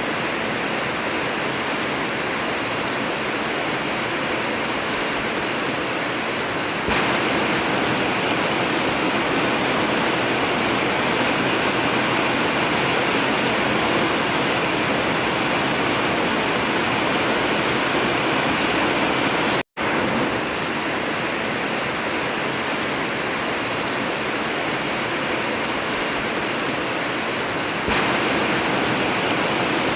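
Heavy rain drumming on an old tin (corrugated metal) roof as a steady, dense hiss. It cuts out completely for an instant about twenty seconds in, then resumes.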